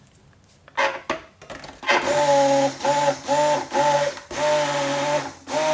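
Stick blender run in short pulses, about five quick bursts and then a longer run near the end, mixing separated liquid soap paste back together in a crock pot. A few knocks come first, around a second in.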